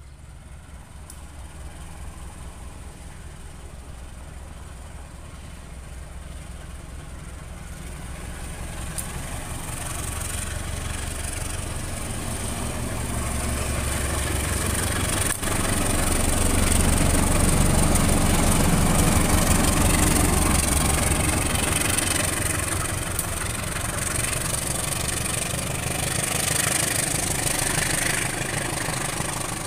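Diesel-electric locomotive hauling a passenger train approaches, its low engine rumble growing steadily louder and loudest just past halfway as it passes close by. The coaches then roll past with a rushing noise of wheels on the rails.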